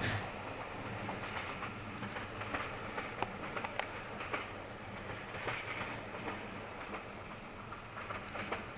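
Train rolling through a station, its wheels clicking irregularly over rail joints and switches above a steady rumble.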